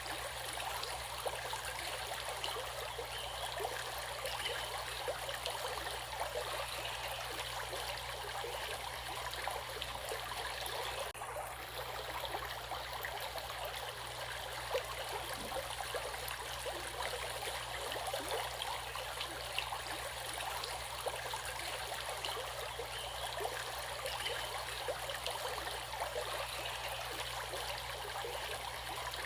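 Stream water flowing and babbling steadily, an even rushing hiss, with a brief dip in its brightest part about eleven seconds in.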